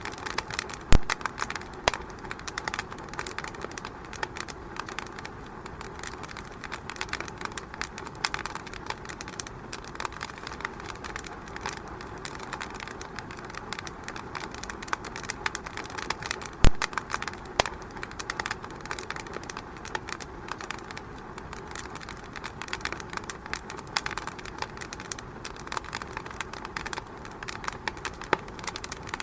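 Wood fire in a fireplace crackling, a dense run of small irregular pops and snaps, with two sharper, louder pops about a second in and about seventeen seconds in.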